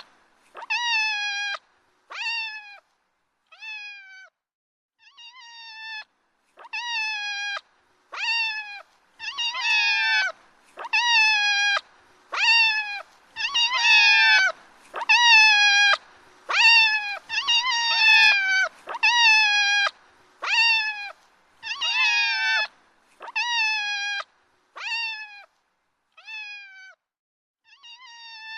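Baby kittens meowing over and over, short high-pitched mews about one a second, each dropping in pitch at the end, with some calls overlapping from more than one kitten.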